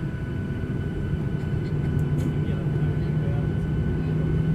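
Airliner cabin noise: a steady low rumble with a humming tone that grows stronger from about halfway, the overall level slowly rising, and a few faint clicks.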